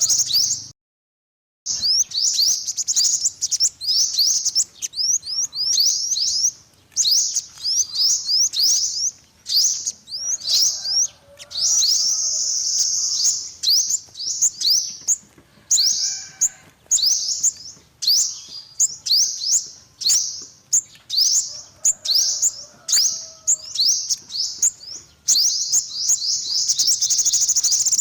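Sunbird singing: a rapid, continuous series of high, thin sweeping chirps, with longer trills around the middle and again near the end. There is a brief silent gap about a second in.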